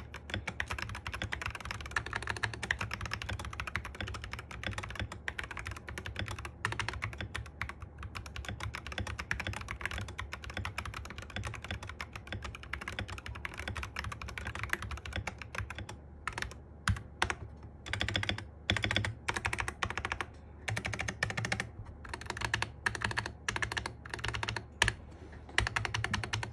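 Typing on a Sky87 mechanical keyboard: quick, continuous key strokes for about sixteen seconds, then slower, separate presses in short groups.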